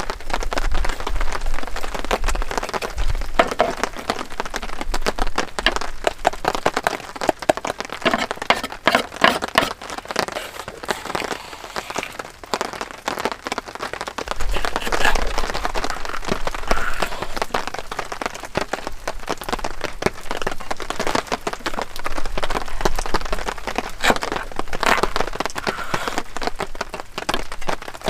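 Heavy rain pattering: a dense run of drop impacts that swells and eases several times.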